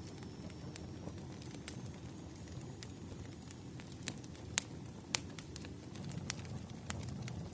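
Campfire crackling: irregular sharp pops and snaps over a steady low noise of the burning fire.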